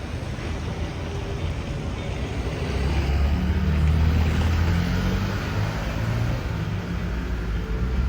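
Traffic on a seaside road, with one motor vehicle's engine growing loud as it passes, loudest about four seconds in, then fading back into the steady traffic noise.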